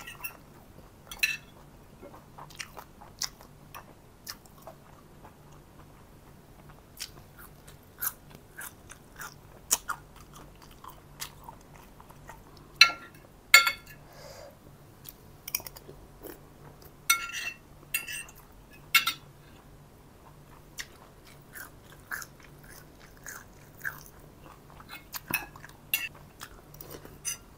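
Close-up eating sounds: chewing, with scattered clinks of a metal spoon and fork against a ceramic plate, a few of them ringing briefly.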